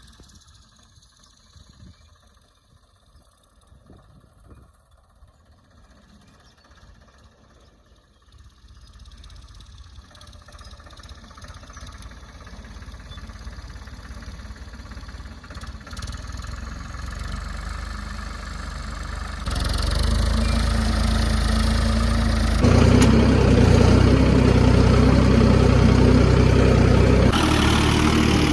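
Ford 3600 tractor's diesel engine running, faint at first and growing steadily louder over about twenty seconds, then loud and steady through the last several seconds.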